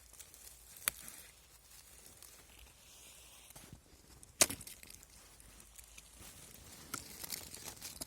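Honey mushrooms being picked from a cluster: rustling of leaves and stems, with a faint click about a second in and one sharp snap about four and a half seconds in.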